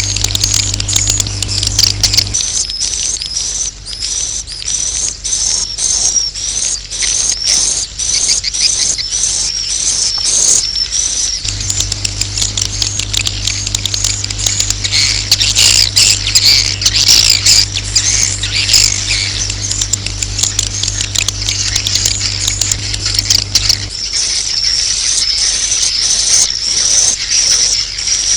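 Swiftlets making a dense stream of rapid, high twittering chirps: a 'suara inap' roosting-call recording of the kind used to draw swiftlets to settle in a nesting house. A steady low electrical hum underneath stops about two seconds in, returns near the middle, and stops again a few seconds before the end.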